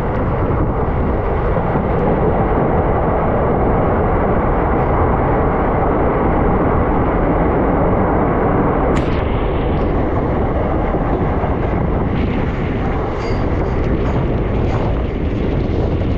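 Moving passenger train: a steady rumble of wheels on rails mixed with wind on the microphone. The sound changes about nine seconds in as the train passes through a short tunnel.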